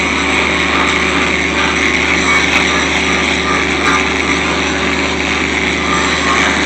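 Engine-driven welding generator (engine welder) running at a steady speed with an even, unbroken drone.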